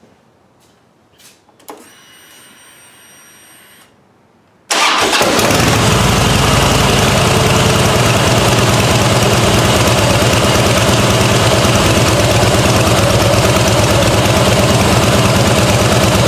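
Harley-Davidson Fat Boy's Twin Cam 96 V-twin being started after an oil change. First a click and a short, steady whine as the ignition is switched on and the fuel pump primes. Almost five seconds in, the engine catches at once and runs at a loud, steady idle with an even low pulsing beat.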